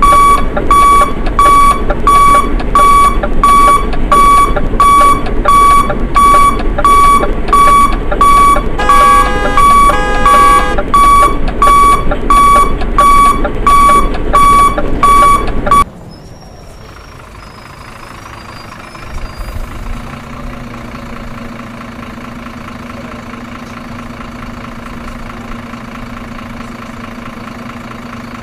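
Loud electronic beeping, about two beeps a second, typical of a truck's reversing alarm, with a brief change to a pattern of several different tones in the middle. It cuts off suddenly and leaves a quieter steady hum.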